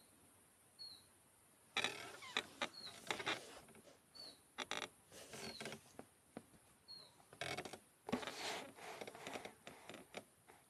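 Quiet forest ambience. A bird gives a short, high chirp every second or two. From about two seconds in, irregular rustling and crackling comes and goes, like dry leaves or twigs being disturbed.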